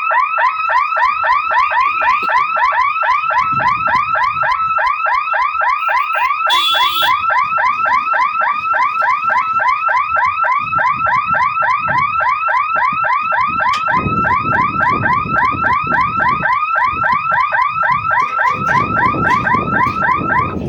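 Electronic warning hooter at a railway level crossing, sounding a fast, evenly repeated rising whoop, about five sweeps a second, that stops abruptly at the end. From about 14 s, low wind gusts rumble under it.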